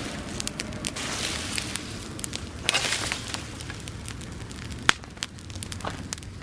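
Bonfire of dry grass burning: a steady rush of flame with many crackles and pops. The flame surges twice, and a single sharp pop comes about five seconds in.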